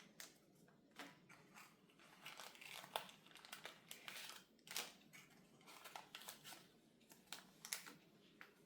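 Faint crinkling and rustling of plastic packaging being handled, with scattered light clicks.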